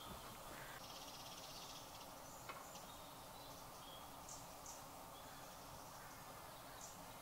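Faint quiet rural outdoor ambience with a few faint, high bird chirps.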